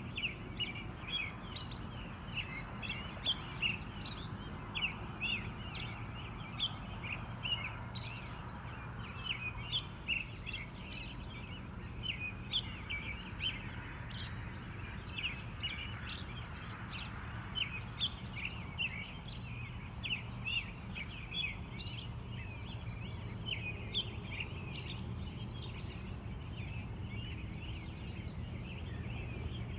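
Morning chorus of wild birds: many short, overlapping chirps and twitters throughout. Under the birds runs a steady low hum and a faint steady high-pitched tone.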